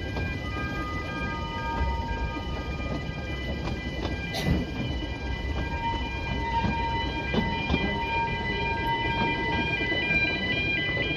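Narrow-gauge railway carriage running along the track: a steady low rumble of wheels on rail with a few sharp knocks from rail joints about four and seven seconds in, and high steady ringing tones over it.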